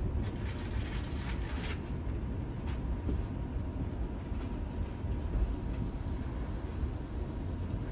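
Running noise heard inside an ÖBB double-decker passenger coach on the move: a steady low rumble from the wheels on the rails, with a few light clicks in the first couple of seconds.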